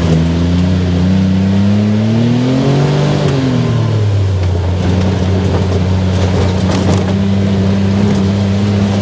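Off-road buggy engine running under throttle: it revs up over a second or two, drops back, then runs steady. A few knocks come through about two-thirds of the way in.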